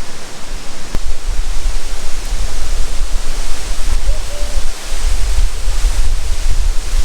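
Sekumpul waterfall, a steady loud rush of falling water heard close up. From about a second in, a pulsing low rumble of wind on the microphone joins it.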